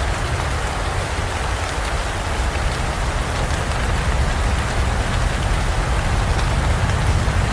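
Heavy rain falling steadily in a forest, an even wash of drops with a constant low rumble underneath.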